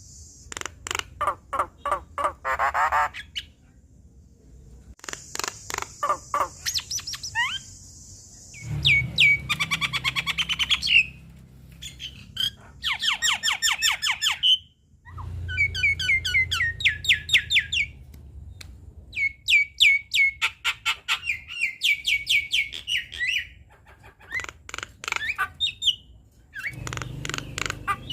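Javan myna singing: bouts of rapid chattering, clicking notes and harsh squawks, broken by short pauses.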